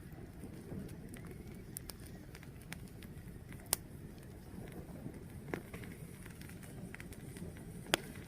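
Fire burning with a steady low rush and scattered sharp crackles and pops, the loudest pops just past the middle and near the end.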